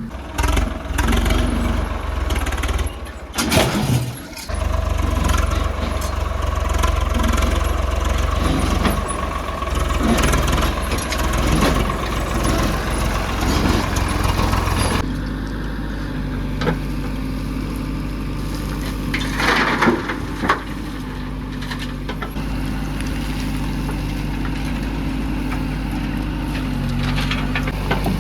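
Heavy diesel machinery engine running: louder and rougher for the first half, then settling to a steadier, lower running about halfway through. A few short sharp sounds stand out, a little after the start and about two-thirds of the way through.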